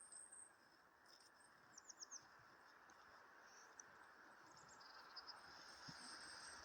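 Faint, high-pitched calls of small birds in a quiet winter forest: scattered short chirps, with a quick run of four notes about two seconds in.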